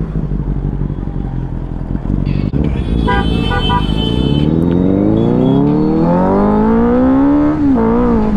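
Benelli 600i motorcycle engine running under way, then a vehicle horn toots in a quick series about three seconds in. The engine then revs up steadily for about three seconds and dips briefly near the end, as at a gear change.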